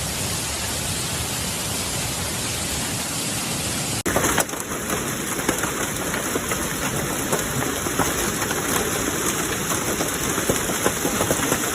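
Hailstorm: a steady rush of falling hail and rain. About four seconds in it changes abruptly to a closer sound full of sharp ticks of hailstones striking hard surfaces.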